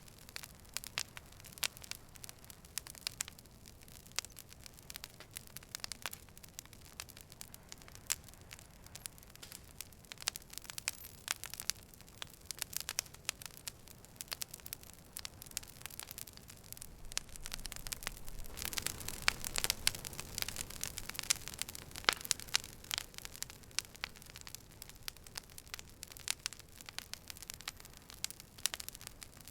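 Campfire crackling: wood popping and snapping in dense, irregular clicks over a soft hiss of flames, busier for a few seconds in the middle.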